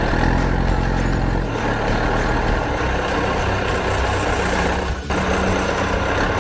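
Heavy truck diesel engine running steadily with a low rumble, briefly cut about five seconds in.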